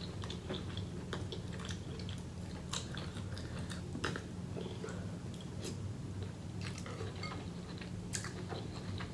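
Close-miked chewing of seafood boil, with scattered small wet mouth and food clicks, over a faint steady low hum.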